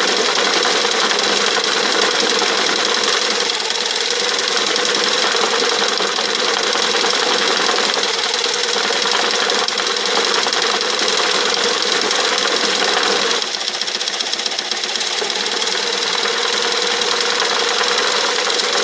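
Electric jigsaw running steadily, its reciprocating stroke shaking a milk crate used as a soil sifting screen, with a dense, continuous rattle. The level drops a little about two-thirds of the way through.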